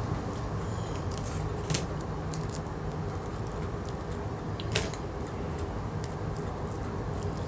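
Small clicks and crinkles from handling takeout food and its packaging, with two sharper clicks about two and five seconds in, over a steady low hum.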